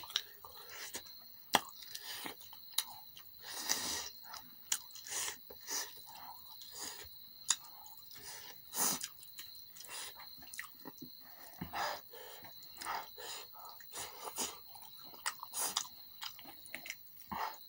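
Close-miked chewing and wet mouth sounds of spicy chicken drumsticks and rice eaten by hand, with irregular sharp smacks and clicks.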